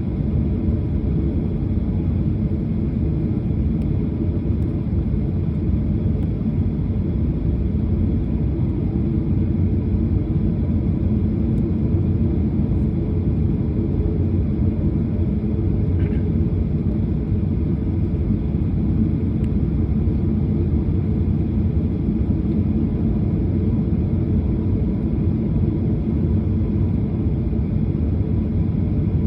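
Steady low rumble of a jet airliner's engines and airflow heard from inside the passenger cabin, unchanging in level.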